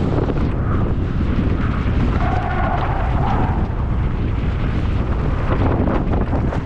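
Wind buffeting the microphone of a camera on a mountain biker racing downhill at speed, a steady low rumble. A wavering higher-pitched tone rides over it for a second or so, about two seconds in.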